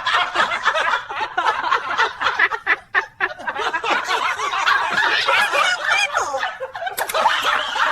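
People laughing, snickering and chuckling at length.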